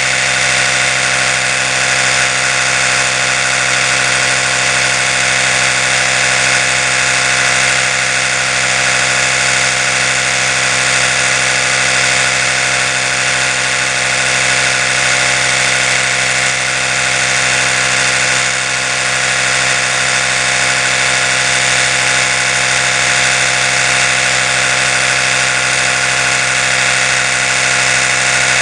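Oral-B electric toothbrush running steadily: a continuous, even motor buzz with a strong steady tone.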